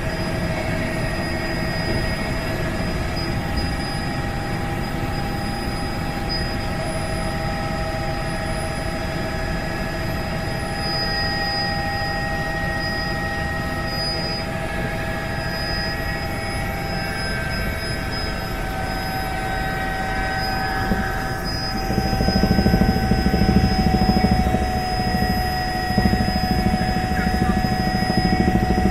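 Helicopter in flight: a steady high engine whine over a dense low rotor rumble, the rumble growing louder about three-quarters of the way through.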